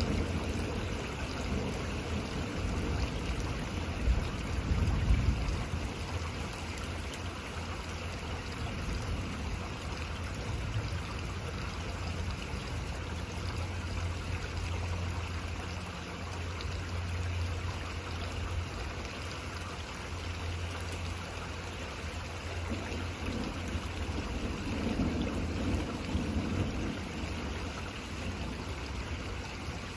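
Steady rain falling in a thunderstorm, with low rumbles of distant thunder a few seconds in and again about two-thirds of the way through.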